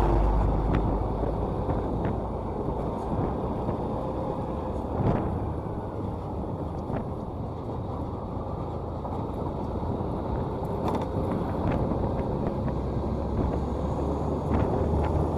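Motorcycle riding along the road: a steady engine and road rumble with wind noise on the microphone.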